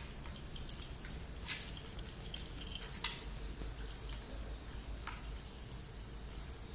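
A dog gnawing at a coconut: a few scattered crunches and scrapes, the sharpest about three seconds in, over a low steady hum.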